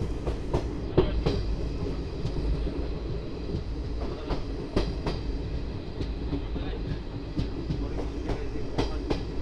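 Guwahati–Silchar Express passenger train running on the track: a steady low rumble with the wheels clicking sharply over rail joints, the clicks often coming in quick pairs.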